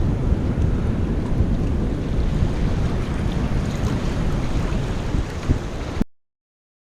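Strong wind buffeting the microphone, with surf from the sea underneath; the sound cuts off suddenly about six seconds in.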